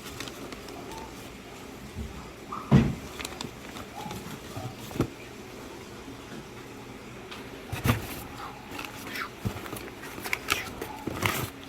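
Handling noise while unpacking a box of live animals: scattered knocks and rustles, the loudest about three seconds in and again near eight seconds, with a cluster of quicker ones near the end, over a steady low hum.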